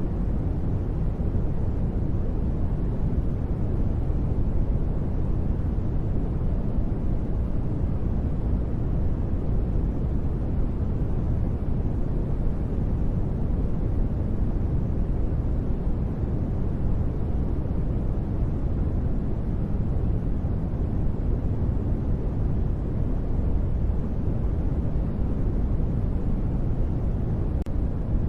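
Steady sleep noise, continuous and unchanging, deep and muffled with most of its energy in the low end and little hiss.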